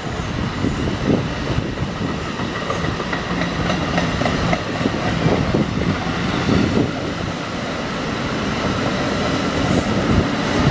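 NJ Transit Multilevel double-deck commuter coaches rolling past as the train departs, their wheels clicking over the rail joints. The noise grows a little louder toward the end.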